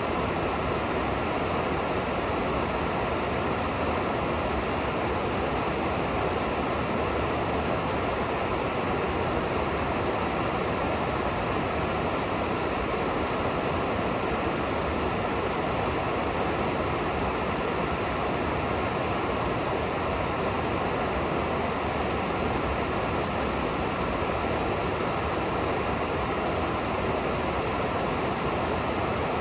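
River water rushing steadily below, an even, unbroken sound of flowing water.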